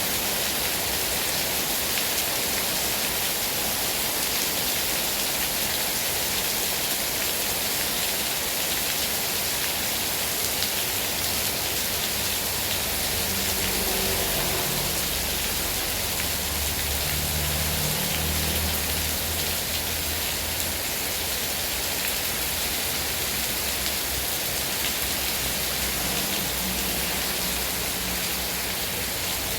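Heavy rain falling in a steady, dense hiss. From about 13 to 20 seconds in, a low rumble swells underneath and then fades.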